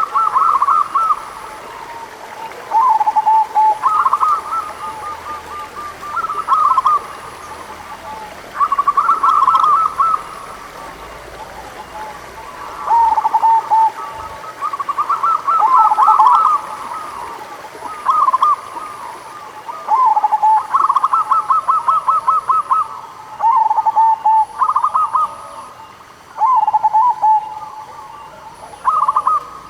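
Zebra doves (perkutut) cooing: short rolling, trilled coo phrases repeated every second or two, some higher and some lower in pitch, often overlapping, as from more than one bird.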